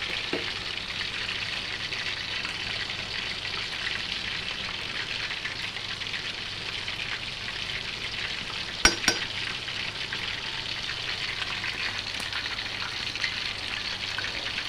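Food frying in hot oil, a steady crackling sizzle. About nine seconds in come two sharp clicks in quick succession.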